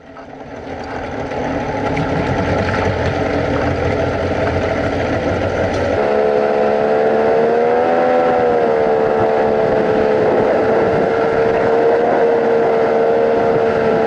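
Outboard jet boat motor running at speed, with water and wind noise under it. It fades in over the first two seconds, and its steady engine tone dips and comes back up briefly about eight seconds in.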